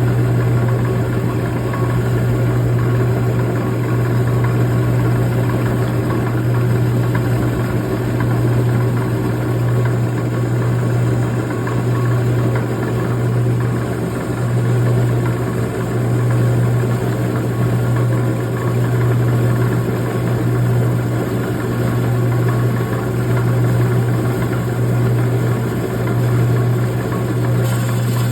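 Lapidary rock saw running steadily with a low, constant hum while its blade cuts through a slab of agate/jasper clamped in its vise.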